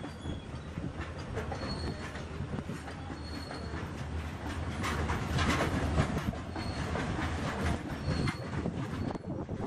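Open freight wagons rolling past on the track, wheels clattering over the rail joints, louder around the middle. Several brief high wheel squeals.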